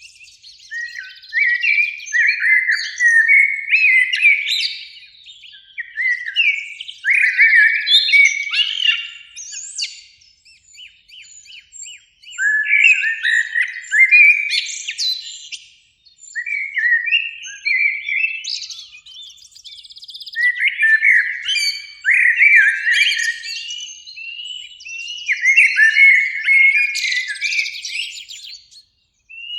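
Common blackbird singing: about six phrases of low, fluting warbles, each trailing into a higher, thinner twitter, with short pauses between phrases.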